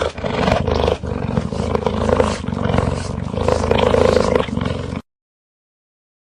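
A large wild animal roaring, one rough call lasting about five seconds that cuts off suddenly.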